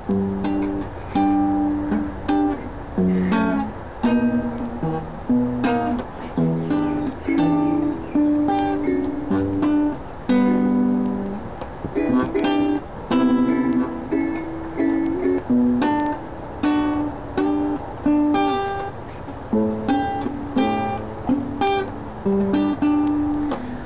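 Guitar playing an instrumental intro: single plucked notes and chords ringing out in a slow, even pattern.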